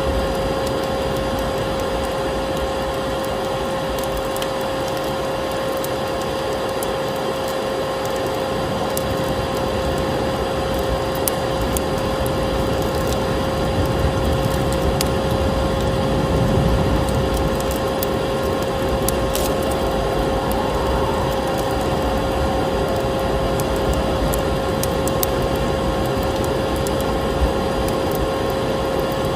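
Vacuum cleaner running steadily with a constant motor whine, layered with the scattered crackles and pops of a wood fire burning in a fireplace.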